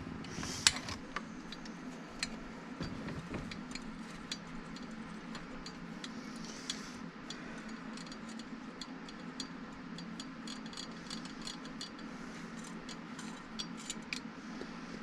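Scattered light metallic clicks and ticks of a hand tool working a fastener loose on a Husqvarna 353 chainsaw, over a steady low hum.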